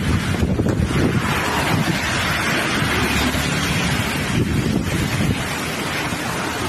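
Heavy rainstorm: a steady hiss of downpour with gusty wind buffeting the microphone in a fluctuating low rumble.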